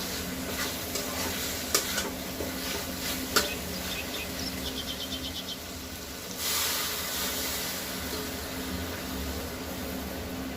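Food frying in a pan while a spatula stirs it, with a few sharp knocks of the spatula on the pan and a quick run of light ticks. About six seconds in, a louder sizzle starts suddenly and carries on.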